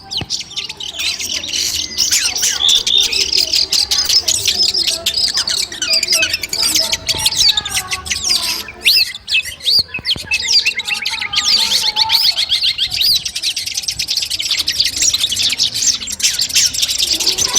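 Songbird calls from a masteran training recording for long-tailed shrikes: dense, rapid chirps and trills, with a short break about nine seconds in and fast repeated notes near the end. These are calls played to train a caged long-tailed shrike and test its nerve.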